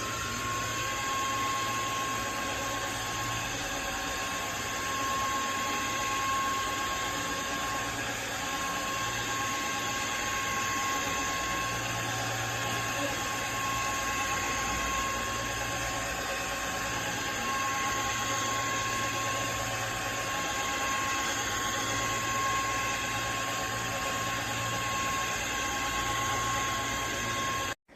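Simplus S-Clean V1 cordless wet-dry floor washer running in dry-mopping mode: a steady motor whine with one strong tone over a broad hum. It cuts off suddenly near the end.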